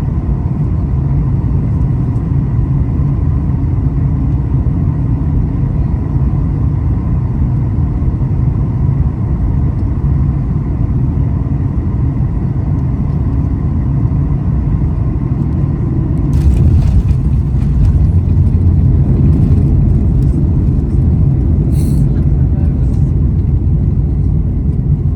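Cabin noise of a Boeing 737 airliner on its landing: a loud, steady low rumble of engines and airflow with faint steady tones. About sixteen seconds in it grows louder and heavier, with short rattles, as at touchdown and rollout.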